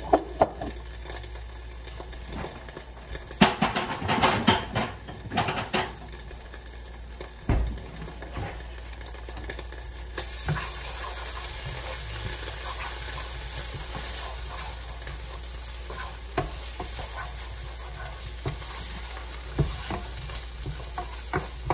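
Beef and onions frying with ginger-garlic paste in a pot, stirred with a spoon that clatters and scrapes against the pot a few seconds in. From about ten seconds in the sizzling turns steadier and louder, with the odd tick of the spoon.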